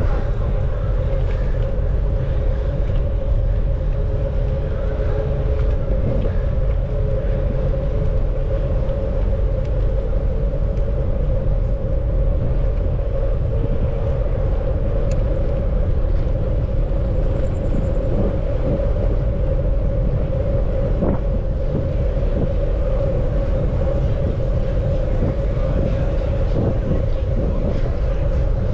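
Steady low rumble of rolling and wind noise from a bicycle ride, with a constant mid-pitched hum over it.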